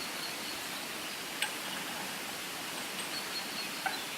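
Steady rushing outdoor ambience, an even noise like running water or wind, with two short sharp clicks, about a second and a half in and near the end, and a few faint thin high peeps.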